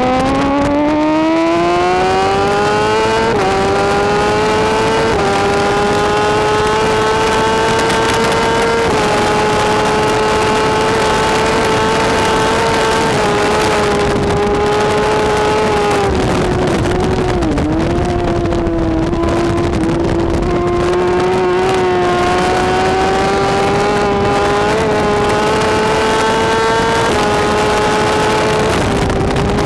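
BMW S1000RR inline-four superbike engine at racing speed. It pulls hard up through the gears, with quick upshifts in the first nine seconds, then holds near full throttle with a brief dip in revs a little past halfway, over a steady rush of noise.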